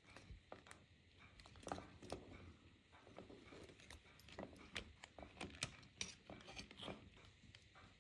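Faint, irregular clicks and taps of small metal and plastic parts and hand tools being handled during work on an old hair dryer.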